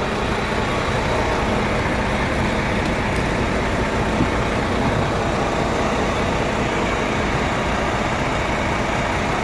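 Steady, unbroken hum of an idling semi-truck's diesel engine.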